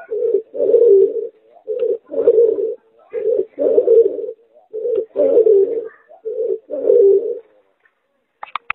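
A pigeon × spotted dove hybrid cooing in repeated phrases, each a short low coo followed by a longer one, about five phrases at an even pace. A few sharp clicks come near the end.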